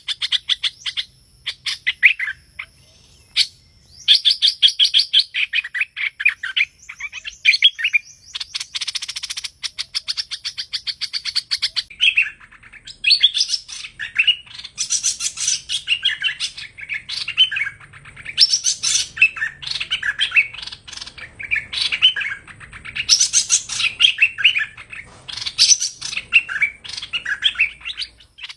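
Hoành hoạch songbird singing: fast runs of bright, quick chirping notes in repeated phrases with short pauses between them, busier in the second half.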